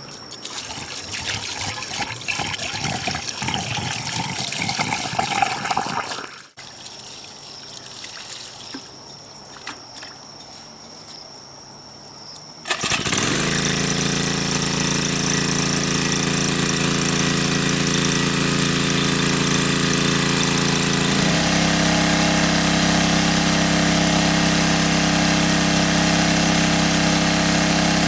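Irregular rustling noise with a steady high tone, then a motor engine starts abruptly a little before halfway and runs steadily at a constant note, which steps to a new pitch about three-quarters of the way through.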